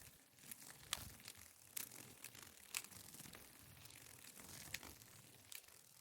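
Faint outdoor ambience of rustling leaves, with a few sharp crackles spread through it.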